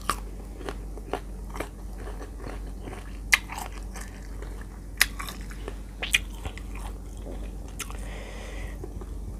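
Close-miked biting and chewing of crisp, unripe green mango: sharp, wet crunches every second or so, the loudest about a third of the way in. Near the end comes a short soft rasp as another chili-salt-coated slice is lifted from the plate.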